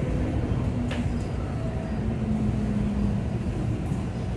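Running sound of a Tokyu 3000 series train heard inside the carriage: a steady low rumble of the wheels on the track, with faint steady tones and a single sharp click about a second in.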